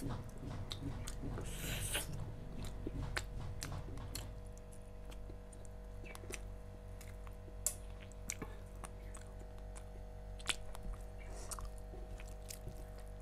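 A person chewing a mouthful of rice and chicken eaten by hand, close to a clip-on microphone, with wet mouth sounds and scattered small clicks and taps. A faint steady hum sits underneath.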